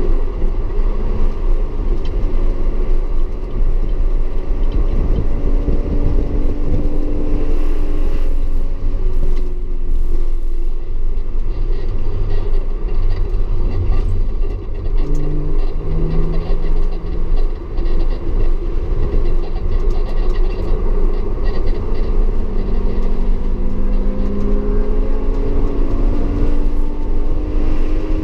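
Audi S4 engine under way on a track. Its note drops early on, holds through the middle, then climbs steadily near the end as the car accelerates, all over a heavy, steady rumble.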